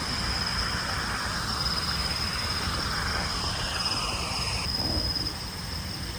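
Steady high-pitched insect drone, crickets or cicadas, over a constant low rumble.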